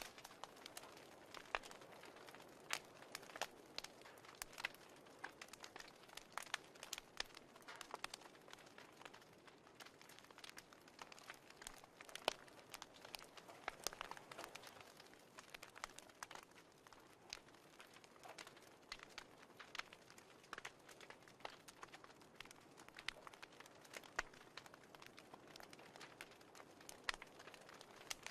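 Wood fire crackling in a fireplace: irregular sharp pops and snaps, several a second, over a soft hiss.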